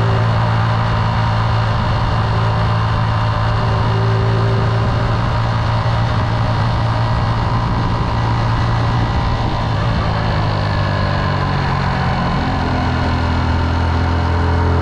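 Motorcycle engine running steadily under way, heard from on the bike; about twelve seconds in its note drops a little as the rider eases off or changes gear.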